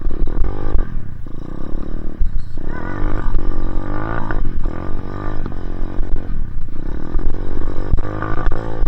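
Dirt bike engine revving up and down again and again as the bike is ridden, its pitch climbing and falling every second or two.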